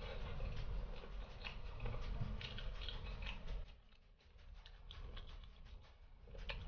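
A person chewing fried chicken up close: a run of small, irregular wet mouth clicks and smacks, quieter from about four seconds in.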